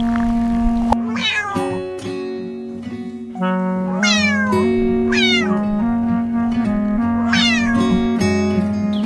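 About four high-pitched cat meows, each sliding down in pitch, over steady background music.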